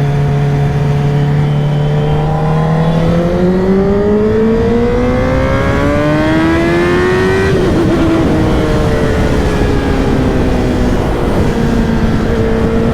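Honda CBR1000RR-R's inline-four engine running under way: it holds a steady pitch, then revs up for about four seconds. Its pitch drops suddenly, as at a gear change or roll-off, then it settles at a lower steady pitch, over a constant rush of wind and road noise.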